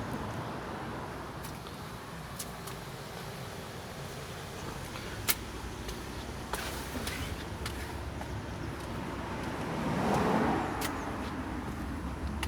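Road traffic running steadily, with a car passing close about ten seconds in, and a few sharp clicks scattered through.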